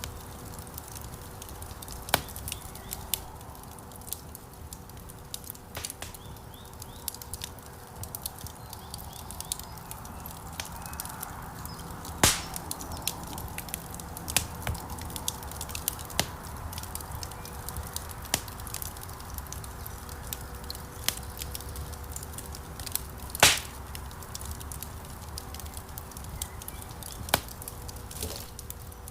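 Wood fire crackling in a stone fireplace: irregular small pops and ticks over a low rumble of flames. Two louder snaps come about twelve seconds in and again near twenty-three seconds.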